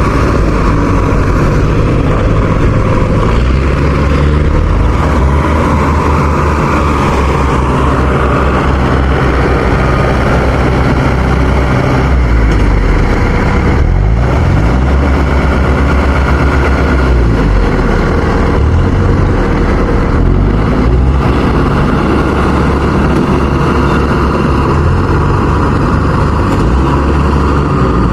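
Farm machine's engine running loud and steady, its pitch dipping and rising a little in the middle.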